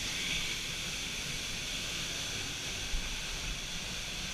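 Waterfall: a steady, even hiss of falling water, with one faint knock about three seconds in.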